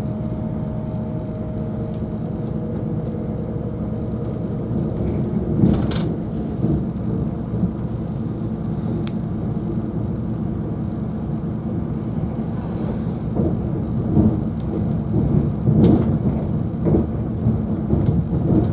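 Cabin noise inside a moving CrossCountry Class 220 Voyager diesel multiple unit: the steady rumble of the underfloor diesel engine and wheels running on the rails, with occasional sharp clacks and knocks from the track and the carriage.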